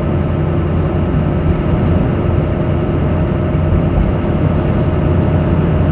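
Steady engine and road noise of a vehicle driving at highway speed, heard from inside the cab: a constant low rumble with a steady hum.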